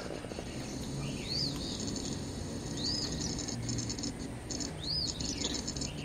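Birds calling in the background: a short high chirp that rises and falls, repeated about every one and a half to two seconds, with a faint rapid high trill between the chirps.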